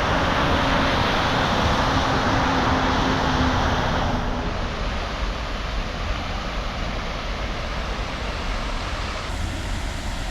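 Steady rushing noise of freeway traffic close by. It turns quieter and duller about four seconds in.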